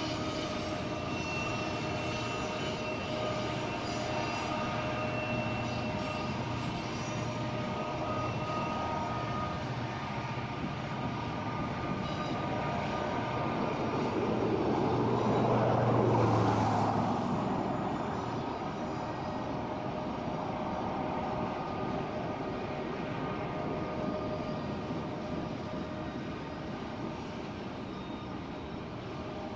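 A long freight train of covered hopper cars rolling across a bridge, its wheels making a steady rumble on the rails with faint steady high tones above it. About halfway through, a louder swell of noise rises and fades over a few seconds.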